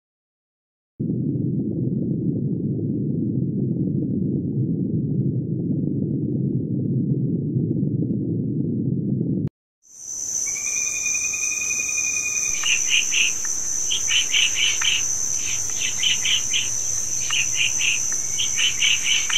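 For the first eight seconds or so there is a steady low rushing noise with no tones in it. From about ten seconds in a loud, steady, high-pitched insect drone sets in. Over it come repeated clusters of short high chirps, three or four at a time.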